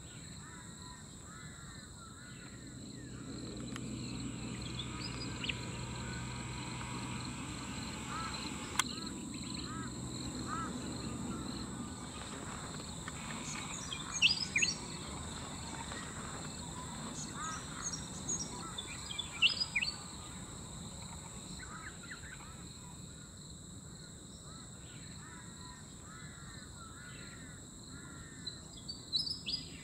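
Birds calling at intervals, including the chirping call of a willy wagtail, over a steady high-pitched insect drone. A low rumble runs through the first part.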